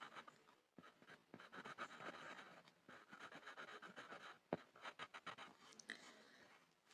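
Pencil scribbling on a board: a run of quick, faint scratchy strokes, with a sharp tap about halfway through.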